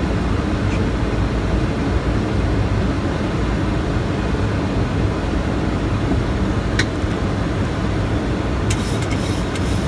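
Steady cockpit noise of an airliner on approach: an even rumble and rush of airflow and engines. A short rising chirp comes about seven seconds in, and a few faint clicks come near the end.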